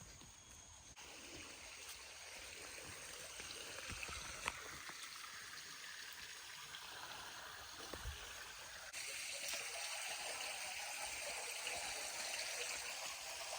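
Steady rushing hiss of water, stepping up suddenly in loudness about a second in and again near the nine-second mark, with a single light click midway.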